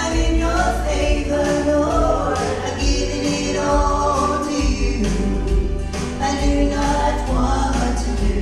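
Southern gospel vocal trio of women singing in harmony over an instrumental accompaniment with a steady bass line.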